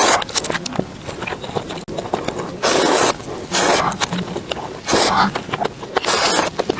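Close-miked eating noises: a person chewing and biting food, heard as about five short, loud noisy bursts with small mouth clicks between them.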